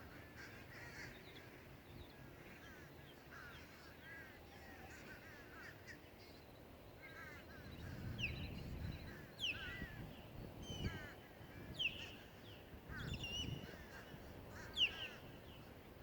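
A flock of birds calling over and over from the lake, many short overlapping calls, with sharper high, falling calls joining about halfway through. Low rumbling bursts come and go in the second half.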